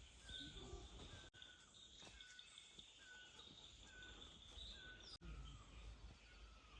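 Faint rural outdoor ambience: a short chirp repeats about every three-quarters of a second over a steady high insect-like drone and a low rumble. The sound drops out for a split second twice.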